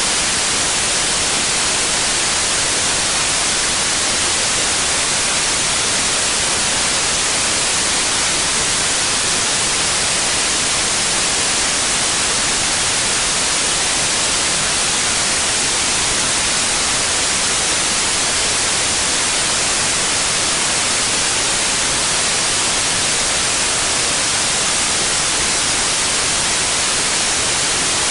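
Steady white noise: an even, unchanging hiss weighted toward the high end, with no events or changes.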